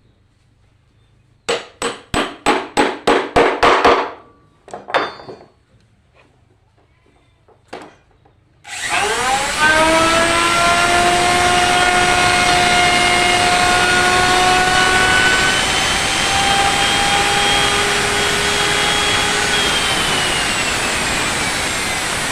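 A wood moulding machine is switched on about nine seconds in. It spins up and then runs steadily as a loud machine whine in dense noise, and one high tone falls away near the end. Before it starts there is a quick run of about ten sharp wooden strokes, followed by a few scattered knocks.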